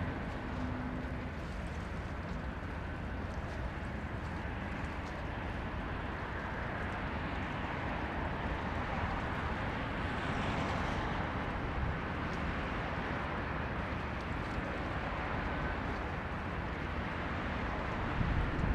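Boeing 929 Jetfoil running at speed, its gas turbines and waterjets giving a steady rushing noise that swells slightly about halfway through.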